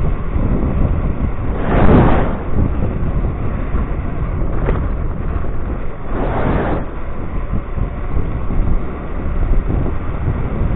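Wind rushing over the microphone with a steady low rumble while riding an electric scooter, with two brief louder swells of rushing noise about two seconds in and again about six seconds in.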